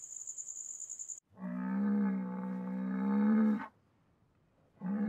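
Highland cow mooing: one long, low moo of about two and a half seconds, with a second moo starting near the end. Before it, in the first second, a high, fast-pulsing trill cuts off.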